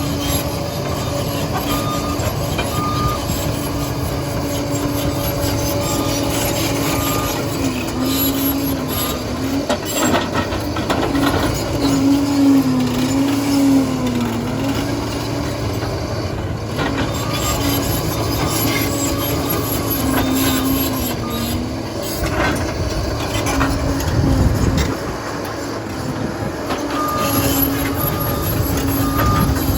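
Liebherr PR 746 crawler dozer's diesel engine running under load, its pitch rising and falling as the blade works. A reversing alarm beeps regularly in the first few seconds and again near the end.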